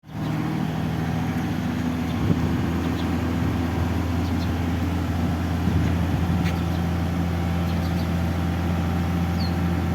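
Engine running steadily at a constant speed, a low even hum, with a few faint knocks over it.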